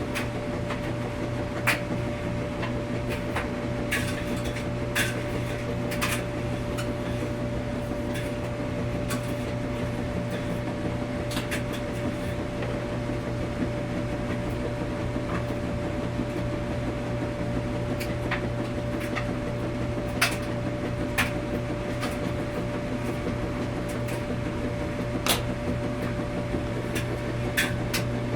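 Laundromat washing machines running: a steady low hum with a steady higher whine over it, and sharp clicks and knocks at irregular intervals, some fifteen in all.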